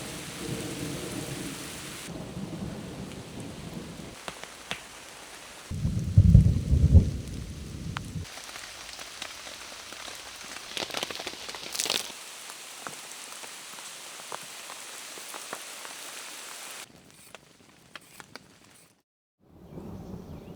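Heavy rain pattering, with scattered drop clicks, and a loud low roll of thunder about six seconds in that lasts a couple of seconds. The rain sound changes abruptly several times and cuts out briefly near the end.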